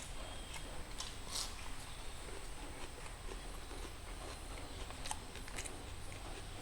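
Close-miked mukbang eating sounds: chewing and mouth noises of someone eating mutton curry, heard as scattered small sharp clicks and smacks over a steady low hum.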